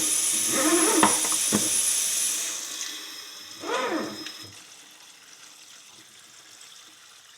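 Hot water running into a cleaning tray holding two horseshoes and powdered bleach, a steady hiss of pouring water that stops about two and a half seconds in.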